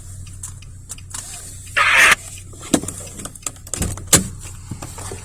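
Someone getting out of a car: a short loud rush of noise from the door opening about two seconds in, then scattered clicks and knocks with a sharp thump a little after four seconds as the car door shuts, over the steady low hum of the idling car.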